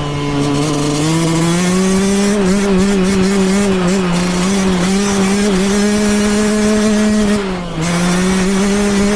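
Yamaha YZ125X's 125 cc two-stroke single-cylinder engine running at a held, raised rev. The pitch climbs about a second in, holds with a slight wobble, then dips briefly near the end before coming back up.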